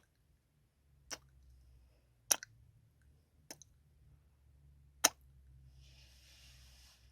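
Close-up ASMR kissing sounds into the microphone: four short, sharp lip-smacking kisses spread over about five seconds, then a soft hiss near the end.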